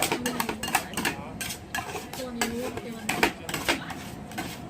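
Metal spatulas clacking and scraping on the steel plate of a cold-plate rolled ice cream griddle as the ice cream base and fruit are chopped and spread, in quick irregular strikes of several a second.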